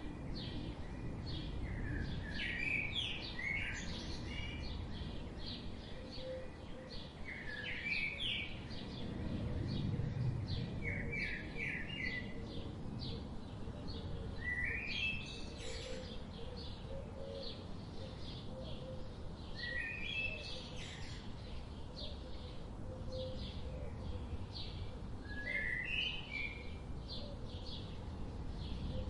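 Birds chirping and calling: many short chirps and brief warbling phrases, some notes sliding up, repeated all through over a low, steady background rumble.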